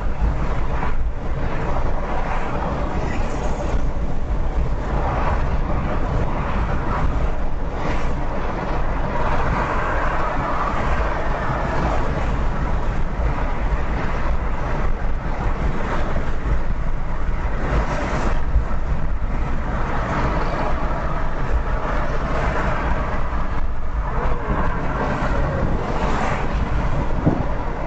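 Steady driving noise of a car at highway speed: a deep, even rumble with tyre and wind hiss, with no distinct impact.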